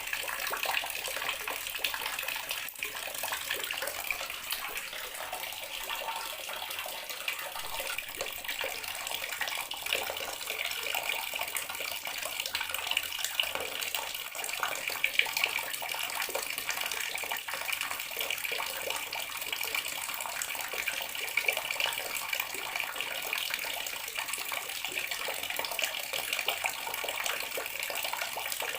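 Water running steadily from a tap into a bathroom sink, an even splashing hiss with small irregular spatters.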